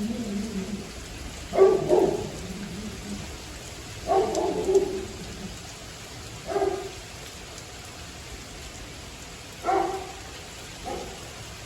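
Steady hiss of rain falling through a night storm, with a dog barking several times in the distance, single barks spaced a couple of seconds apart.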